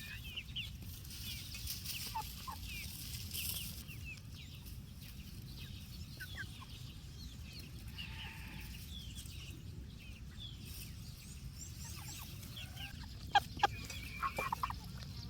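Chickens clucking, with many short high chirps throughout, over a steady low rumble. A few sharp knocks stand out near the end.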